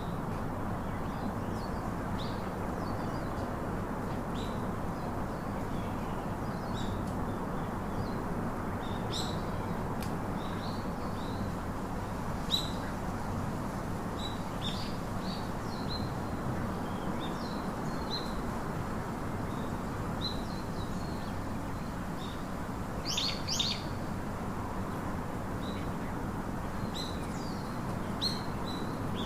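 Small birds chirping in short, high calls scattered throughout, with a brief flurry of calls about 23 seconds in, over a steady background noise.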